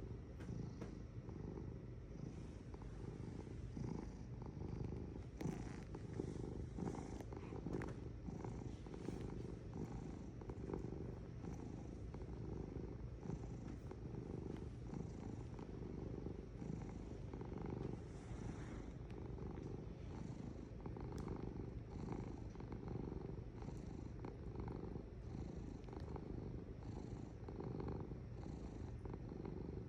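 Domestic cat purring steadily and continuously, a low rapid pulsing rumble.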